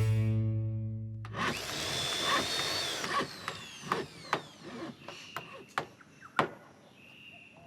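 Cartoon soundtrack: music ending on a held chord that fades out over the first second, then sound effects: a hissing whoosh with falling whistles, followed by scattered clicks and knocks that sound like tool work.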